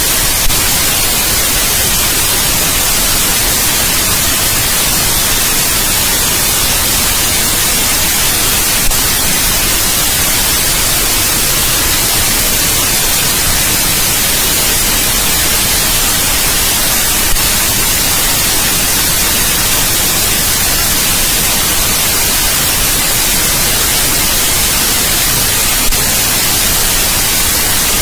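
Steady white noise: an even, bright hiss across the whole range, with a faint tick recurring about every eight and a half seconds.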